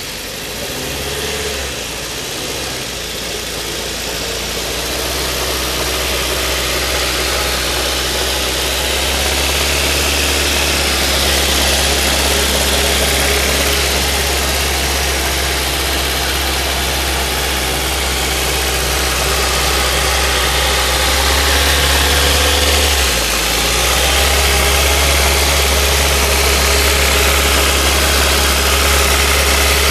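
Ford Focus 2.0-litre petrol four-cylinder engine (AODA) idling steadily, a used engine the seller describes as in very good running order. The idle holds even, with a brief dip about two-thirds of the way through.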